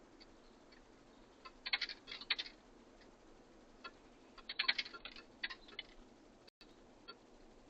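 Birds pecking at a feeder: short runs of rapid taps and clicks about two seconds in and again near five seconds, with a few single clicks between.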